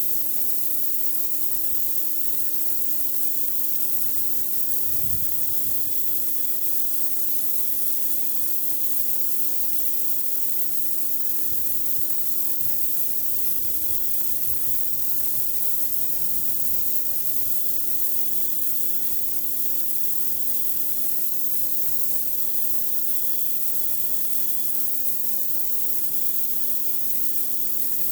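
Pressure washer blasting high-pressure water onto concrete: a steady hiss of spray over the machine's constant hum.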